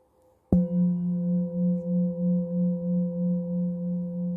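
A singing bowl struck once about half a second in, then ringing on with a deep fundamental and several higher overtones, its tone wavering in a slow pulse about two or three times a second.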